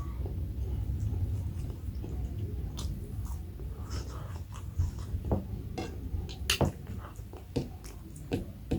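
A person chewing and eating close to the microphone, with wet mouth smacks and scattered short clicks.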